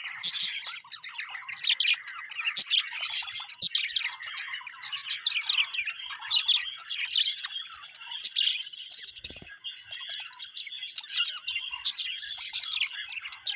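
A flock of birds chirping and squawking continuously, with many short high calls overlapping.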